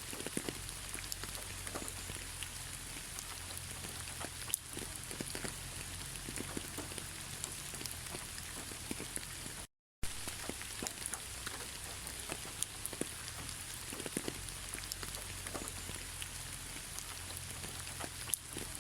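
Steady rain falling, a constant hiss with many separate drops striking close by. About halfway through, the sound cuts out completely for a split second, then carries on.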